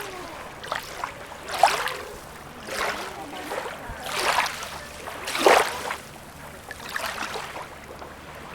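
Small waves lapping and splashing at the water's edge, one splash about every second over a low wash of water, two of them louder than the rest.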